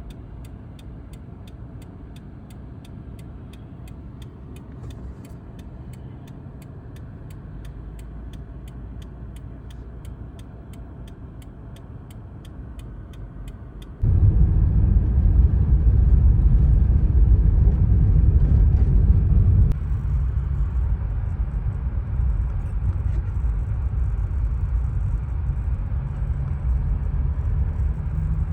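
Car's low, steady road and engine rumble with a faint, regular ticking over the first half. About halfway through the rumble abruptly becomes much louder, then eases back partway a few seconds later.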